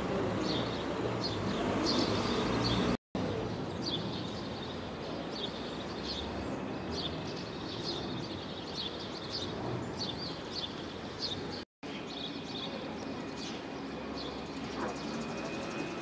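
Birds chirping and twittering over a steady background of outdoor noise; the sound drops out briefly twice.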